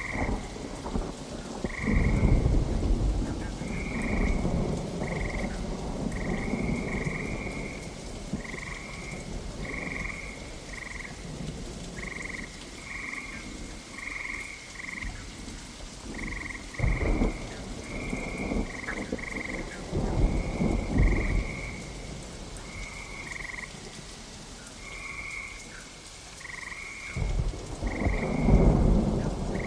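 Steady rain with thunder rumbling three times: about two seconds in, again in the middle, and near the end. Frogs call throughout in short repeated croaks at a fixed pitch, about one or two a second.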